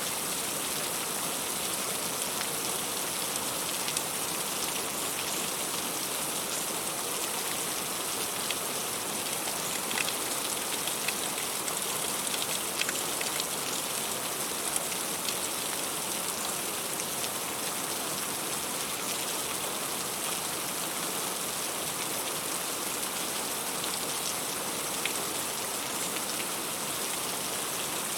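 Heavy rain falling steadily on fruit and leaves, an even hiss with scattered sharper drop hits.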